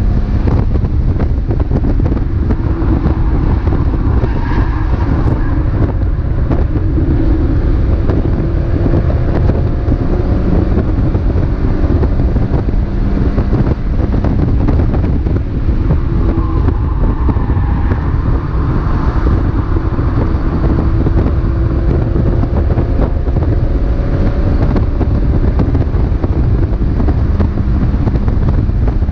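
Mazda MX-5 race car's four-cylinder engine running at racing speed, its note rising and falling repeatedly, under a heavy, steady low rumble of wind and road noise.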